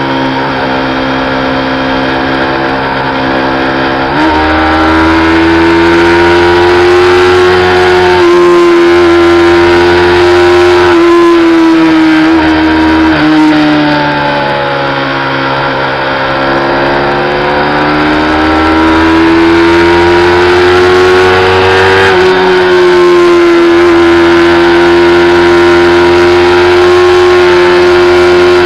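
Yamaha YZF-R25's 249 cc parallel-twin engine running hard at high revs under full throttle while riding. The note holds mostly steady, jumps up about four seconds in, then sags slowly in the middle and climbs back before settling high again.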